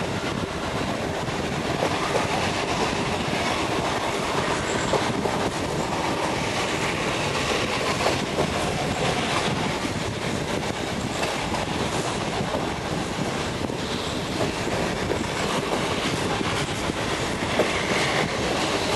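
Train hauled by the restored steam locomotive BDZ 46.03 running along the line: a steady rumble with the clatter of wheels over the rails.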